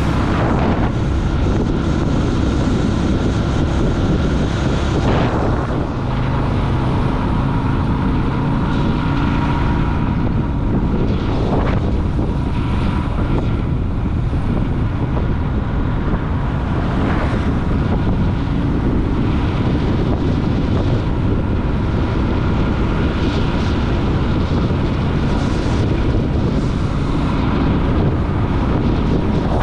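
Yamaha Virago's V-twin engine running steadily while the motorcycle is ridden, with wind noise on the microphone and a few brief gusts.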